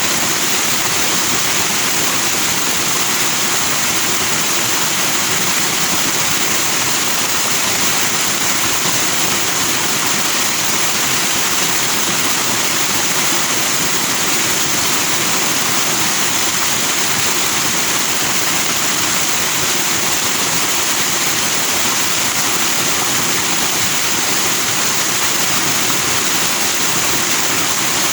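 Stream rushing over rocks with white foam, a steady, even water noise with no breaks.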